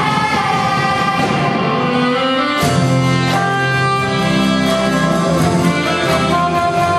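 Ensemble music played live: instruments holding sustained chords, with a new, fuller chord coming in about two and a half seconds in.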